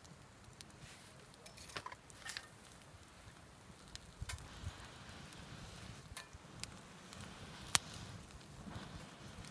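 Wood fire crackling in a campfire stand, with scattered pops and one sharp crack about three quarters of the way through.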